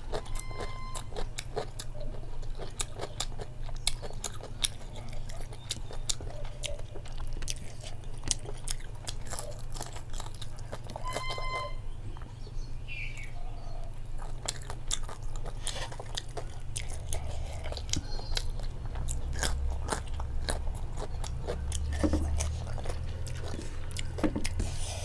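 Close-up chewing and crunching of food eaten by hand, with many short wet mouth clicks, over a steady low hum.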